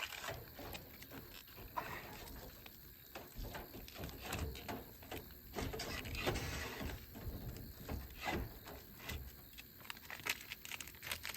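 Irregular light clicks, taps and rustles of small objects being handled, with no steady sound underneath.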